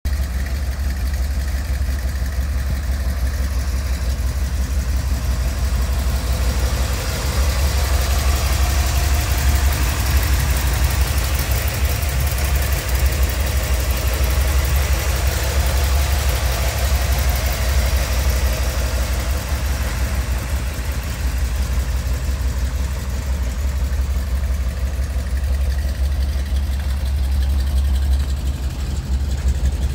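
Chevrolet 350 small-block V8 idling steadily, a little louder in the middle as the engine bay comes close.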